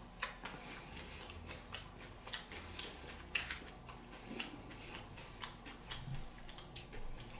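Close-miked chewing and mouth noises: irregular soft clicks and small crunches, one or two a second.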